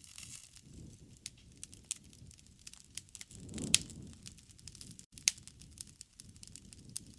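Wood campfire burning: irregular sharp crackles and pops over a low rustle of flames. The rumble swells briefly a little past halfway, along with the loudest pop.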